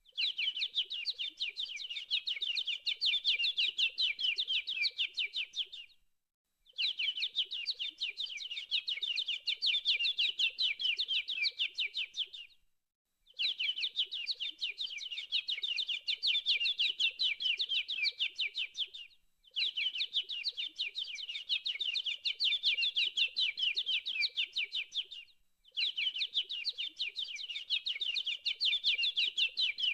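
Birds chirping: a dense run of rapid, high chirps that comes in stretches of about six seconds, broken by short silent gaps, with each stretch much like the last.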